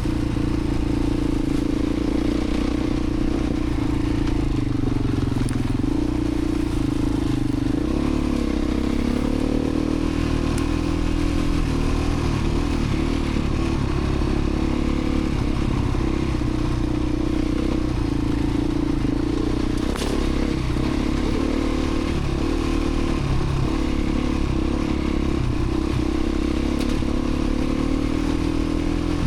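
Beta 350 RRS single-cylinder four-stroke dirt bike engine running at a fairly steady trail pace, its pitch wavering slightly with the throttle. A single sharp click is heard about two-thirds of the way through.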